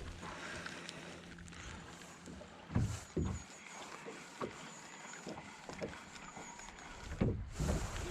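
Low knocks and thumps in a small boat, a pair about three seconds in and a cluster near the end, with scattered light clicks over a steady hiss.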